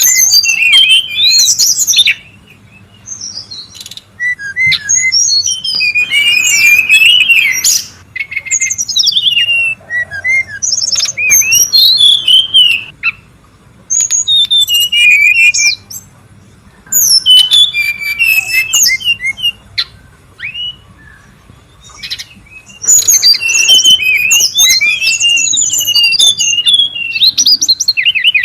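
Brown-chested jungle flycatcher singing: bursts of rapid, high twittering notes a few seconds long, broken by short pauses.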